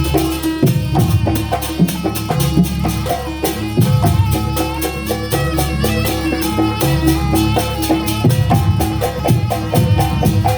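Live Banyuwangi jaranan ensemble music: drums with a fast, steady run of sharp metallic strokes and melodic pitched notes over them, playing without a break.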